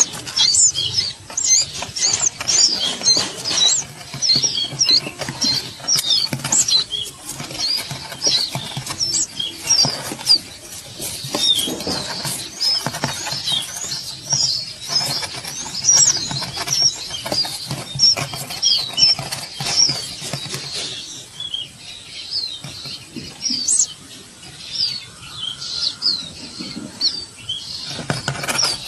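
Small birds calling in quick, short, high-pitched chirps, several a second, over fluttering wings and rustling. The chirps thin out for a while in the second half.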